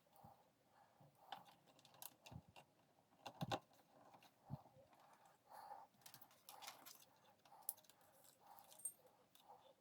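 Faint scattered clicks and light taps of small hard objects being handled, with a louder cluster of knocks about three and a half seconds in.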